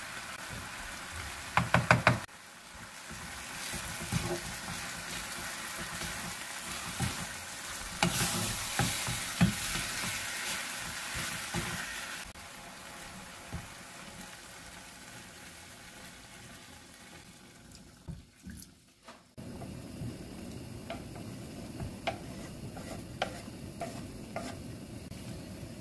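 Kimchi and sliced canned ham sizzling in a frying pan as they are stir-fried with a wooden spatula, with a quick run of sharp knocks from a spoon tapped on the pan about two seconds in. Later the sizzle gives way to the stew broth bubbling at a simmer, with a few light taps.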